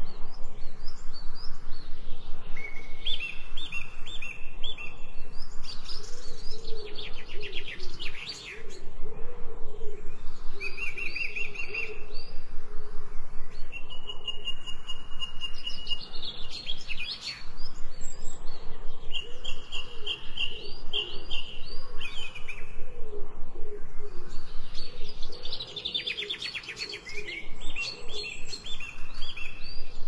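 Songbirds singing: several birds chirping over one another in short repeated high notes, with rapid trills about three times, and softer lower notes underneath.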